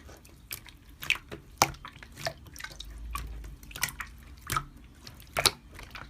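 Slime being squeezed and worked by hand, making irregular wet clicks and pops, a few a second.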